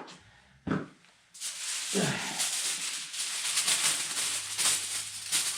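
Cloth rag rustling and rubbing, a dense scratchy rustle that starts about a second in, as the rag is pressed and wiped around a leaking hydraulic hose fitting.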